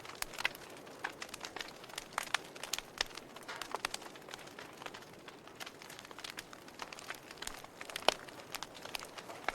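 Wood fire crackling in a fireplace: irregular sharp pops and snaps over a soft steady hiss, with one louder pop about eight seconds in.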